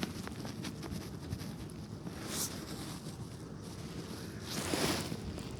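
Strong wind buffeting the microphone as a steady low rumble, with a few faint clicks and a louder rushing gust near the end.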